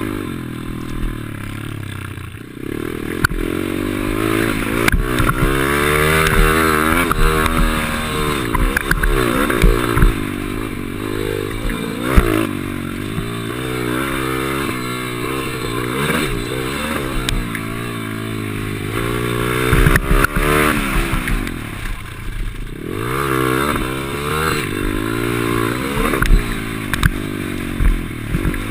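Small pit bike engine racing around a motocross track, its pitch climbing and dropping again and again as the rider accelerates and shifts. Sharp knocks and clatter come through from the rough track, heard from a GoPro on the bike.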